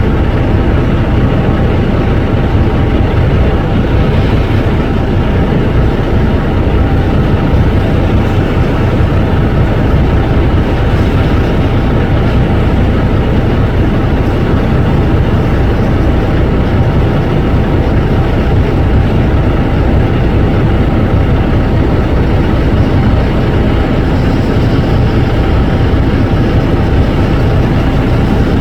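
Tractor engine running steadily and loudly, with no change in pace.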